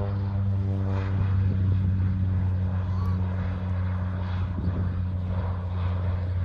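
Propeller engine of a crop-dusting airplane flying over, a steady low drone.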